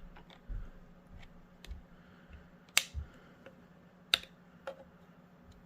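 Scattered sharp plastic clicks and taps from a Theragun massage gun's plastic housing panels being handled and pried with a tool. Two clicks stand out as louder, a little under three seconds in and about four seconds in.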